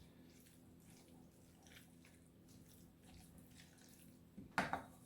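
Faint wet squishing of sauced buffalo chicken, peppers and onions being stirred together in a bowl, with one brief louder sound about four and a half seconds in.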